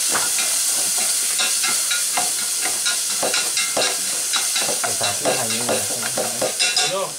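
Food frying in a metal pot over a wood fire: a steady sizzling hiss with frequent short clicks and scrapes of stirring against the pot, a quick cluster of sharper clicks near the end.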